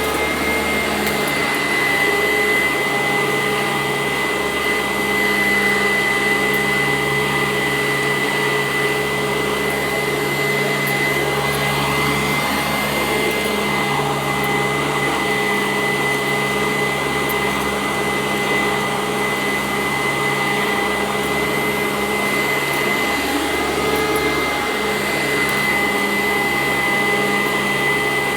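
Sanitaire SC886 vacuum running steadily over carpet. Its motor gives a constant high whine over a lower hum, with slight shifts in pitch now and then.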